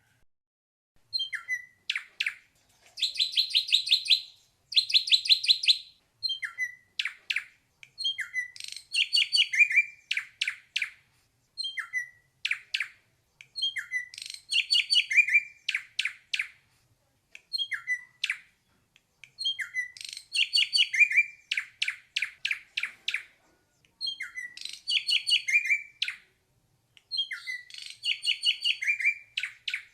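Ashy drongo singing: short phrases of rapid, rattling repeated notes, about one phrase every two seconds with brief pauses between.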